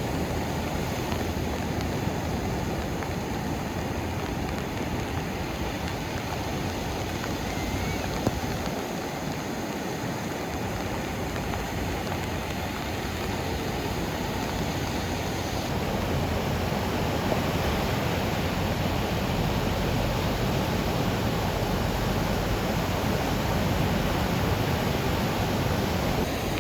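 Steady roar of rough ocean surf breaking on a sandy beach.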